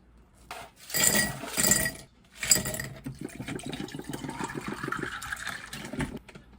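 Glass clinking a couple of times, then liquid poured into a glass for about three seconds.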